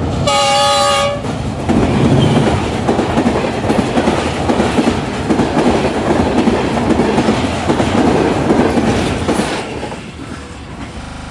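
Pakistan Railways diesel locomotive sounding its horn in one blast of about a second, a chord of several tones. Then the train passes close by, with a loud rumble and the clickety-clack of coach wheels over the rails, dropping away near the end.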